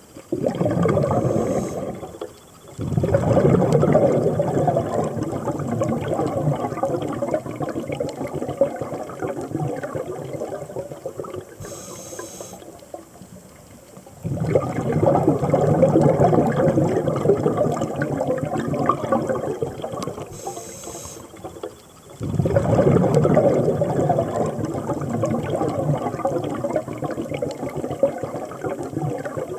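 Scuba regulator exhaust bubbles rushing out as a diver breathes out: three long exhalations, each broken off by a short, quiet inhalation.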